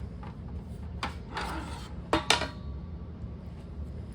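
Clattering and knocking of a 3D-printed plastic mold and a thin pressed steel panel as they are handled and taken apart, with two sharp clanks a little past two seconds in.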